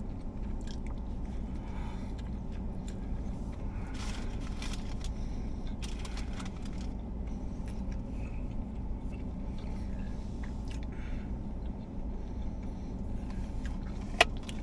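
A person biting and chewing a soft sub sandwich, with a steady low hum underneath. A single sharp click comes near the end.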